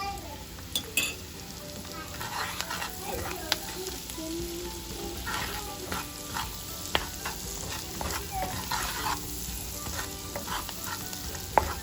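Onions frying in butter in a pan, sizzling, while a spoon stirs them with repeated scrapes and occasional sharp taps against the pan.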